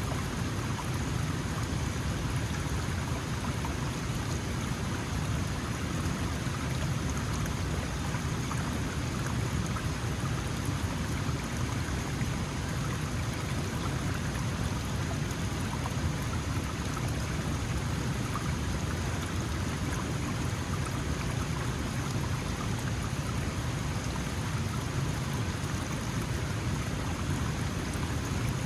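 Small mountain stream flowing steadily, a continuous rushing and splashing of water.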